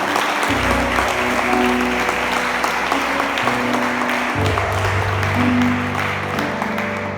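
Congregation applauding, a dense patter of many hands, over soft worship music with long held chords that change a couple of times.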